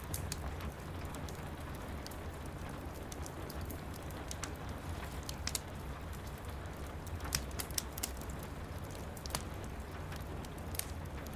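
Steady rain pattering, with a wood fire crackling in a fireplace: irregular sharp pops over a low, even rumble.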